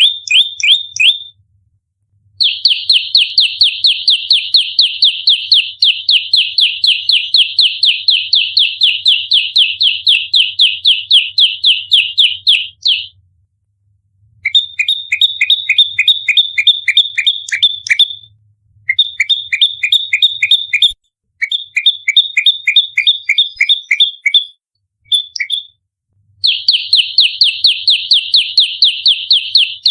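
Prenjak lumut fighting call: a fast, rapid-fire series of sharp high chirps, about five a second. The chirps come in long runs broken by short pauses of a second or so.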